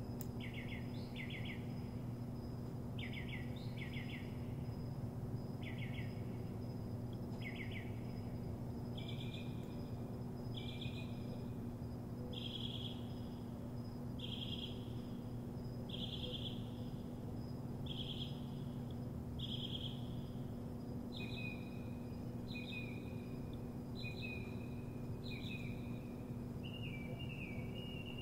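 A songbird singing short, clear phrases about every one to two seconds, repeating each phrase type a few times before switching to another. Under it runs a steady low hum and a faint, steady high tone.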